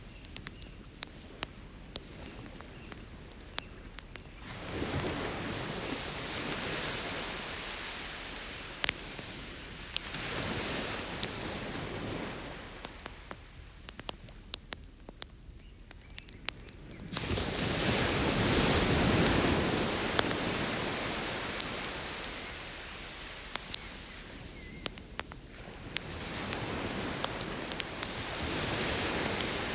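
Ocean waves breaking and washing up the beach in slow swells every few seconds, the biggest about seventeen seconds in, over the steady sharp pops and crackles of a wood campfire.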